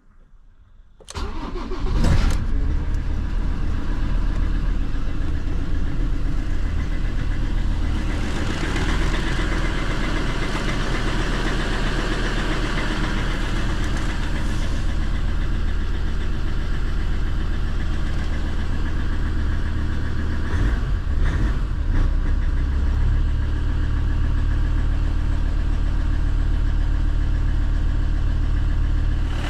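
Ford Transit's 3.2-litre five-cylinder diesel cold-starting at −7 °C: it cranks and catches about a second in, flares briefly, then settles into a steady idle.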